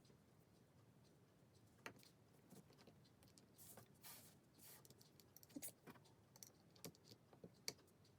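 Near silence with faint, scattered clicks of LEGO pieces being handled and pressed together.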